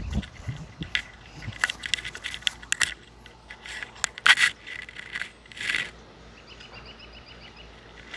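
Rubbing and scraping handling noise with scattered clicks and rustles, irregular throughout and loudest about four and six seconds in. Near the end a faint rapid series of high ticks.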